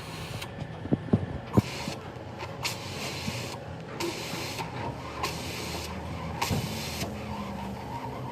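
An engine running steadily with a low hum, with a few sharp knocks about a second in and another one later.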